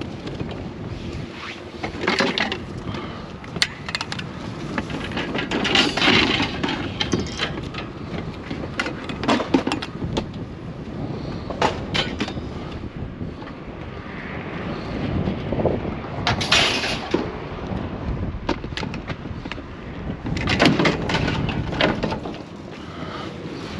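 Repeated knocks, clanks and scrapes of scrap items being handled and set down, over a steady low rumble.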